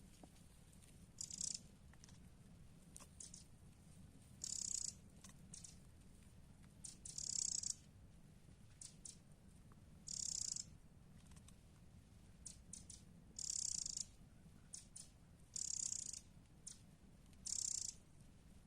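A songbird singing outdoors: a short, high-pitched trilled phrase repeated every two to three seconds, with brief chirps in between.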